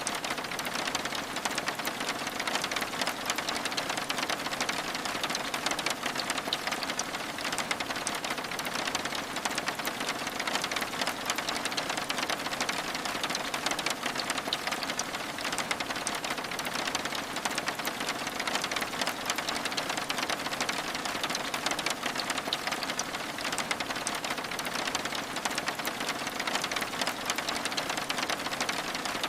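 Steady rain: an even hiss thick with rapid, fine ticks of drops, as on window glass.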